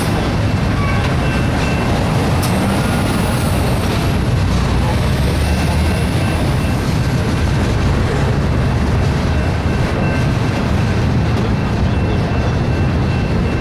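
Double-stack intermodal container train rolling past: a steady, loud rumble of well cars' steel wheels on the rails, with faint high squeals coming and going a few seconds in.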